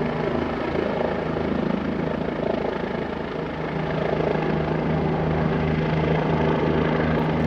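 Police helicopter hovering overhead: a steady rotor chop and turbine hum that swells slightly towards the end.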